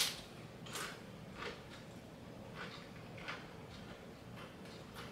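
Faint crunching of tortilla chips being chewed: a string of short, irregular crunches, several in all.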